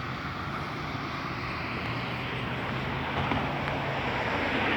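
A distant engine's low, steady drone with wind noise, slowly growing louder.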